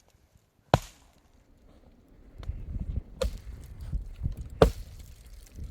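Wood being chopped with hard single blows: three sharp strikes, about a second in, at three seconds and at four and a half seconds, with a low rumbling rustle between the last strokes.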